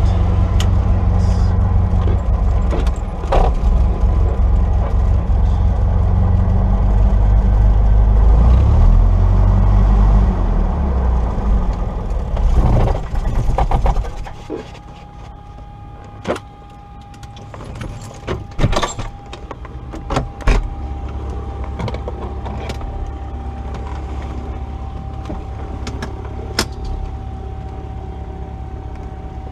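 Cessna 172's piston engine running steadily at low power, then cutting out about halfway through, as at shutdown. Afterwards a steady whine and a few sharp clicks remain.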